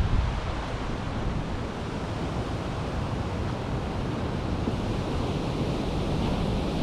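Strong gusty wind rushing through the leaves and branches of a valley oak, with low rumbling of wind on the microphone. It eases slightly in the middle and builds again near the end.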